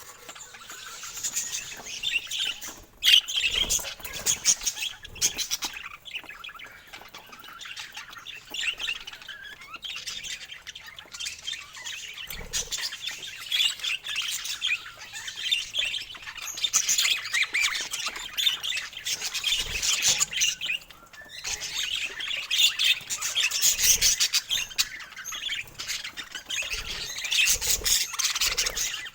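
Pet parakeets chattering, with many overlapping high chirps and occasional squawks that carry on with only brief lulls.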